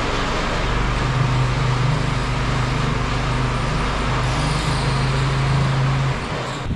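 A motor vehicle driving at steady speed: an engine drone holding one pitch, shifting slightly about four seconds in, over a steady hiss of road and wind noise. It cuts off suddenly near the end.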